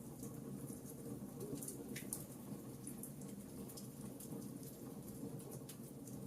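Campfire burning, with frequent small sharp crackles and pops scattered irregularly over a low steady rumble.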